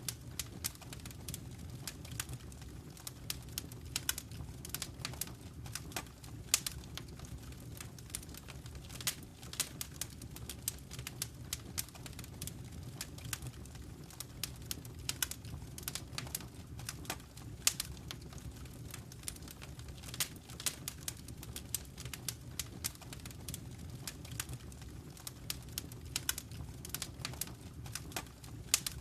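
Fire crackling in a fireplace: dense, irregular sharp pops and snaps over a steady low rumble of flame.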